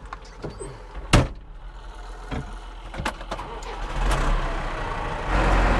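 A sharp knock about a second in and a few lighter clicks, then a tractor's diesel engine comes in near four seconds and runs louder towards the end.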